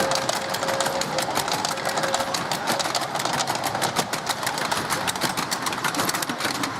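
A miniature steam locomotive running, a fast, even clatter of exhaust beats and wheels on the track.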